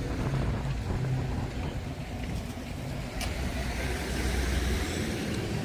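A car engine running with a low, uneven rumble, and a single sharp click about three seconds in.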